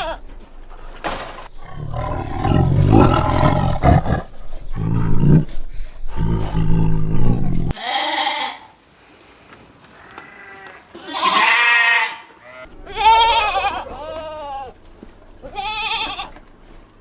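Goats bleating: several separate quavering calls spread through the second half. The first half holds a loud jumble of low noise.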